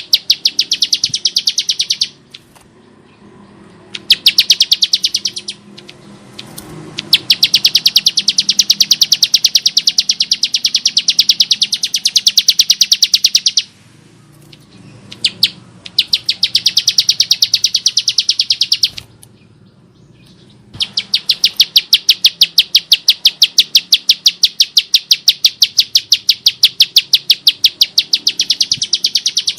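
Bar-winged prinia singing: long strings of rapid, evenly repeated high notes, in bouts of a few seconds each broken by short pauses, the longest about seven and nine seconds.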